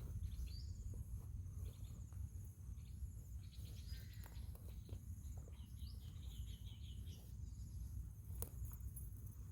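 Outdoor ambience of steady high-pitched insect trilling over a low rumble of wind on the microphone. A few short, quick bird chirps come in now and then, with a run of them about six to seven seconds in.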